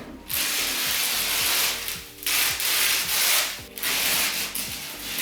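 Several long rubbing, scraping strokes, each lasting up to about a second with short gaps between them, over faint background music with a steady beat.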